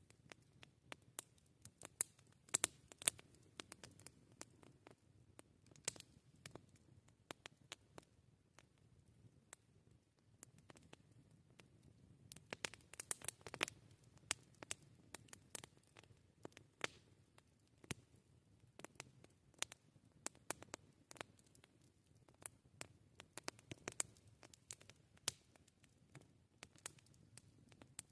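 Wood campfire crackling: irregular sharp snaps and pops over a faint low background, with busier runs of crackles a couple of seconds in and again around the middle.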